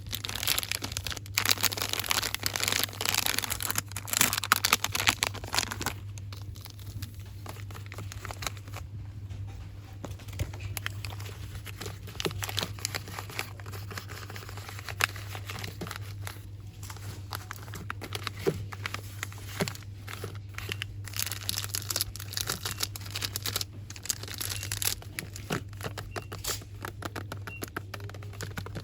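Fast ASMR rustling and crinkling of store-bought items handled close to the microphone, dense and loud for the first six seconds, then softer crinkles with scattered light taps, over a steady low hum.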